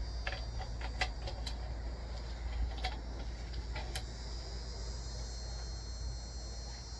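Crickets chirring in a steady high drone over a low rumble, with a few faint clicks scattered through it.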